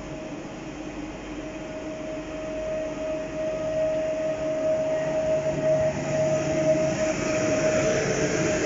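PKP Intercity passenger carriages rolling slowly past on the rails, with a steady squealing tone from the running gear that comes in a few seconds in. The rumble and squeal grow louder as the train passes.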